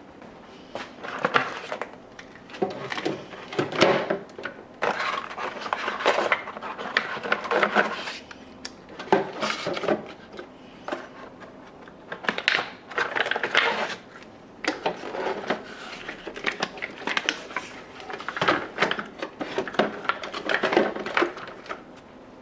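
Household objects being handled and set down, in irregular bursts of clattering, clicking and rustling with short pauses between.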